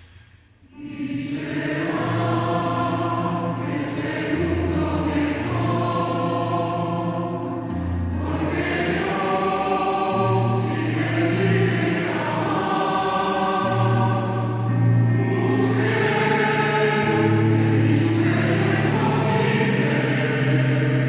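A choir singing, coming in about a second in after a brief pause and continuing with sustained chords over held low notes.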